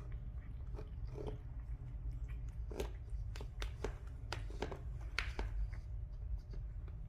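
A cat chewing food, a series of irregular crunches that come thickest in the middle, over a steady low rumble.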